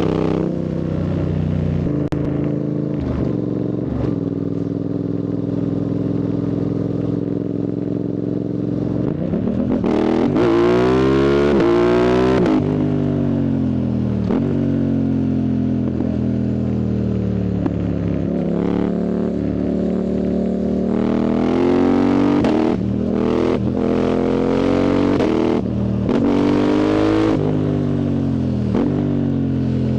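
Yamaha MT-07's parallel-twin engine through a loud full Arrow exhaust with the dB killer removed, ridden on the road. It runs fairly steadily at first, then revs up hard about ten seconds in and falls back. After a slowdown it pulls up through the revs again with several short breaks in the note, before it drops off near the end.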